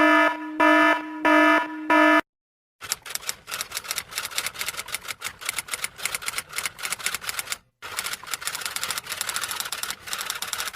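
Four short buzzing beeps, then a long run of rapid typing clicks, many a second, like a typewriter, broken by one short pause partway through.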